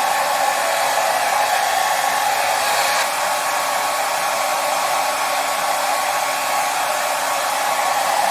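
Hair dryer running steadily: a constant airy whoosh of fan and blowing air with a faint motor hum, unchanging throughout.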